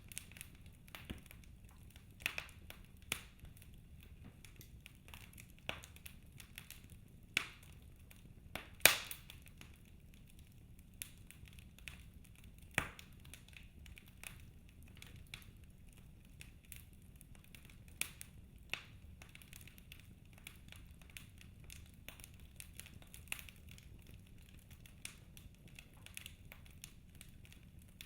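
Fire in a fireplace crackling: scattered, irregular sharp pops and snaps over a faint steady low background, with a couple of louder snaps about a third and nearly halfway through.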